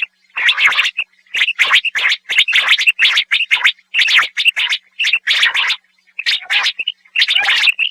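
Common quail calling repeatedly: a quick run of short, sharp notes in bursts, with brief pauses between them.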